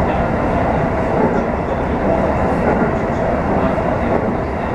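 Electric commuter train running along the track, heard from inside the front car: a steady rumble of wheels on rail with a few faint clicks from the track.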